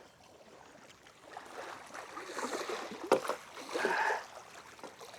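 Water splashing as a hooked fish is drawn in at the surface, in short bursts about two and four seconds in, with a sharp knock between them.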